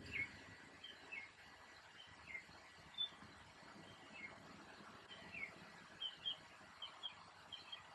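Faint bird chirps outdoors: short falling notes, a few at a time, coming more often in the last few seconds over a low background hiss.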